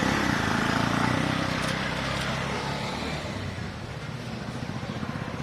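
A motor vehicle's engine running as it passes, loudest in the first second or two and then fading away.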